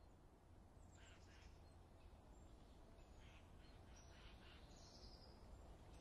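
Very faint birdsong: a few short chirps over a low steady hum, like a quiet forest ambience track.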